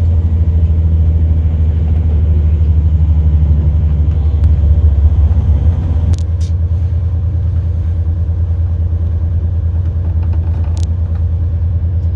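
Passenger train's deep, steady rumble heard from inside the carriage as it rolls through a station; the rumble eases a little about halfway through. Two short sharp clicks stand out, one about halfway and one near the end.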